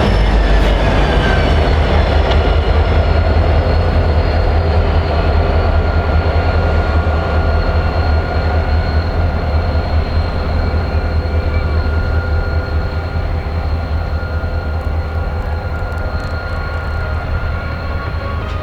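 Diesel locomotive and railcars rolling by, a heavy low rumble with steady high ringing tones over it, slowly fading as the train moves away.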